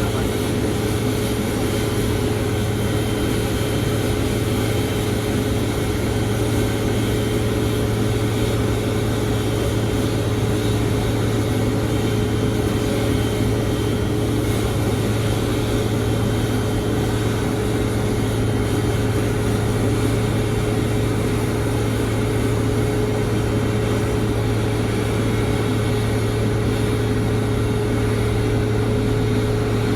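Steady jet airliner drone with no change in level: a constant low hum and a steady higher tone over an even rush of noise.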